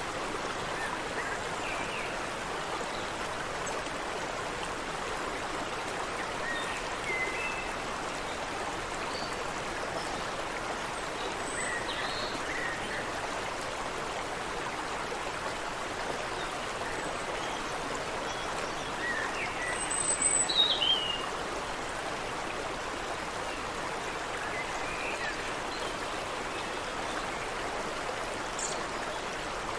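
Creek water running steadily over rocks, with scattered short bird chirps above it; one louder, falling call stands out about two-thirds of the way through.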